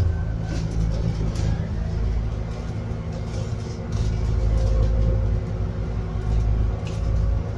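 Scania N280UD biogas double-decker bus heard from on board, its gas engine running as it drives, a steady low rumble that grows louder about halfway through, with a few light rattles.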